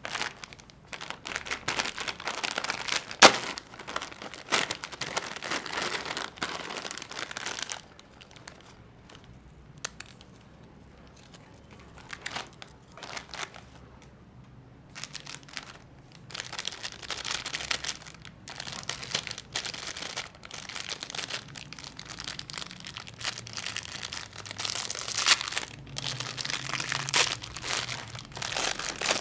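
Plastic snack wrappers crinkling and tearing as packets are handled and opened, with a sharp snap about three seconds in. The crinkling eases off for several seconds in the middle, then picks up again.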